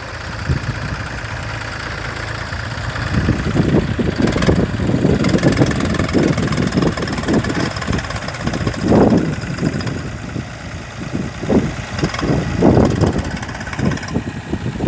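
An engine running, steady for the first three seconds or so, then uneven, with irregular surges.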